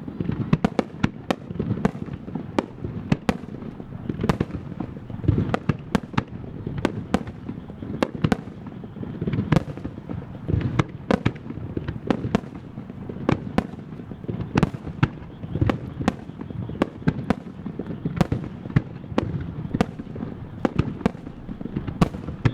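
Starmine fireworks display: shells launching and bursting in rapid succession, a dense stream of sharp bangs about two or three a second over a continuous low rumble.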